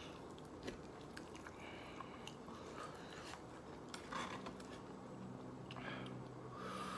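Quiet chewing of a wet burrito close to the microphone, with light clicks and scrapes of a metal fork and knife cutting it in a foam takeout container.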